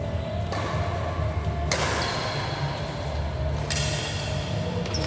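Sharp thuds of play on an indoor sports-hall court, three of them, echoing over steady hall noise.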